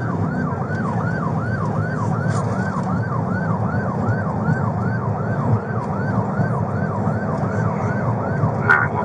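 Police car siren in rapid yelp mode, sweeping up and down in pitch about three times a second without a break, over the low engine and road noise of the pursuing patrol car.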